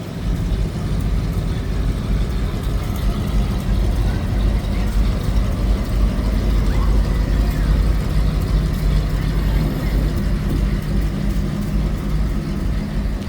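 Fire truck's diesel engine running steadily at low speed, a deep, even engine sound.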